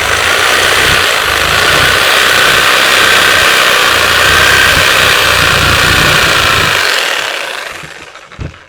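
Reciprocating saw (Sawzall) running steadily as it cuts through a pig carcass, then winding down about seven seconds in, with a short knock near the end.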